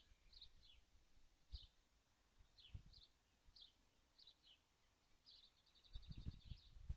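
Faint, high bird chirps, short and repeated about twice a second, with a brief trill near the end and a few soft knocks just before the end.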